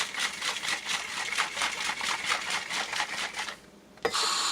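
An aerosol can of whipped cream being shaken in a fast, even rattle for about three and a half seconds. After a brief pause the nozzle opens with a sudden steady hiss as the cream sprays out.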